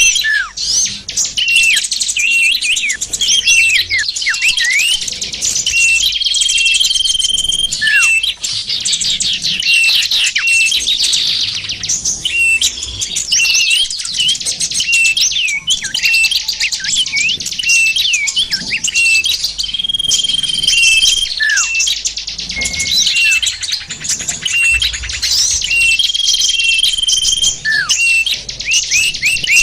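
A dense chorus of small songbirds chirping and twittering, with quick downward-sweeping notes and a held whistled note that returns every six or seven seconds. It is a bird-lure (pikat) recording, made to draw small wild birds in.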